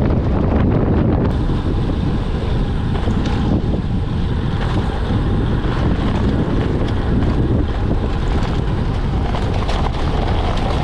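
Strong wind buffeting the microphone: a steady, loud rushing noise, heaviest in the low end.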